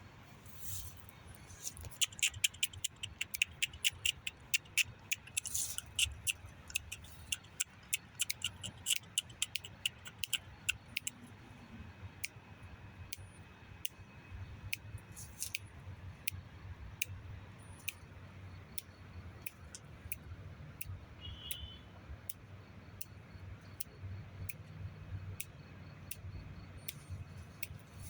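A rapid run of sharp clicks and cracks for several seconds, thinning out to scattered single clicks, with a few brief faint high bird chirps over a low steady background rumble.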